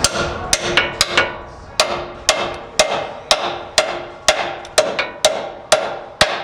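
Hammer striking steel repeatedly, about two blows a second, each blow ringing briefly: metal on a truck's cut body mount being hammered into shape.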